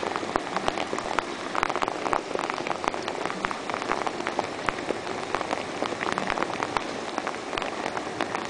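Steady rain falling, with many separate drops ticking sharply on hard surfaces close by.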